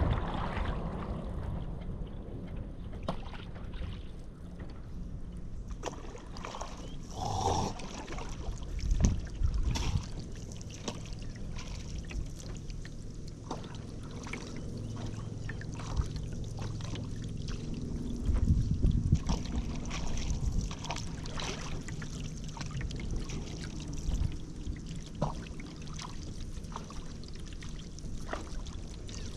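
Paddle strokes in river water: blades dipping and pulling with trickling drips, and scattered light knocks throughout.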